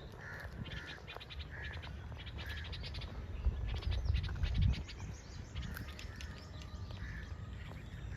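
Birds calling outdoors in short repeated chirps, several a second at first and then more spaced out. A low rumble rises briefly about halfway through.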